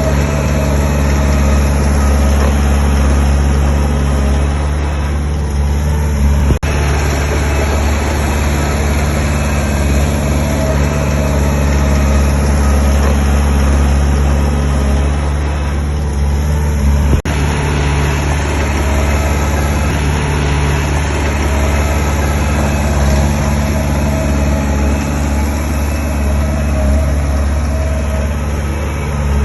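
Diesel engine of heavy earthmoving equipment running steadily with a low, even drone. Two brief clicks come about a third of the way in and again past the middle.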